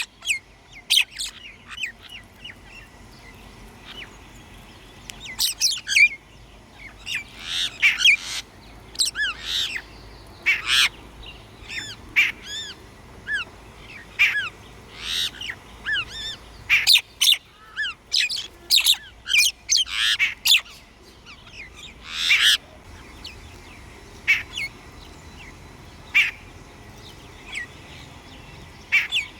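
Wild songbirds chirping and calling: many short, sharp chirps and quick falling notes, one after another in irregular bursts.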